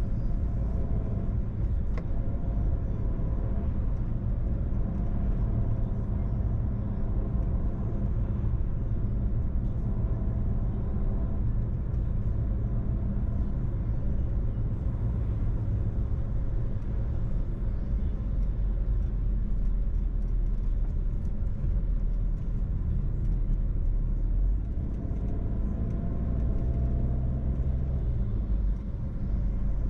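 Car driving, heard from inside the cabin: a steady low rumble of engine and road noise. The engine note shifts near the end.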